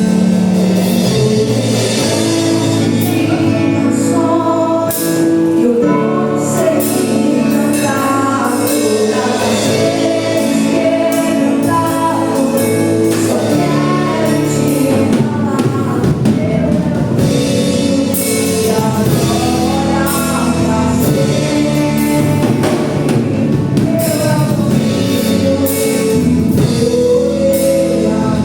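Gospel praise music from a church worship band: voices singing together over a band with a drum kit, playing steadily throughout.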